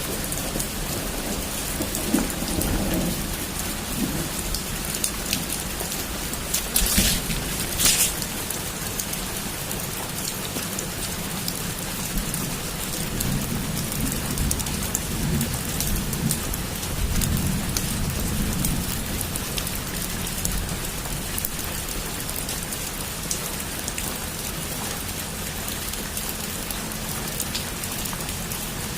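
Heavy rain falling steadily in a thunderstorm, with low thunder rumbling in and out. Two sharp cracks of thunder come about seven and eight seconds in.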